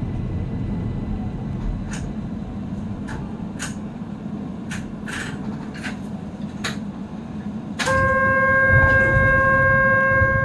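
Keihan 800 series train pulling out of a station, heard from the cab: a low running rumble with irregular clicks of the wheels over track joints. About three-quarters of the way through, a loud, steady held tone starts suddenly and lasts about three seconds.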